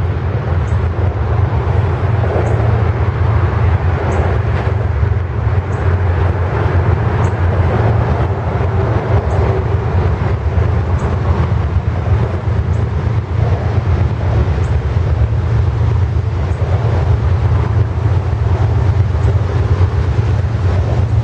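Diesel freight train running, a steady loud low rumble, with faint high ticks about every second and a half.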